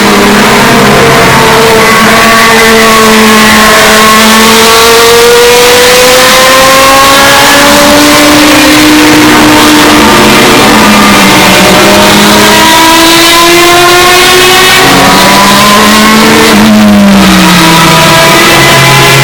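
Historic Group C race cars' engines running hard past the track, several at once, their pitches rising and falling as they accelerate and shift, with a sharp drop in pitch near the end. The sound is very loud and distorted.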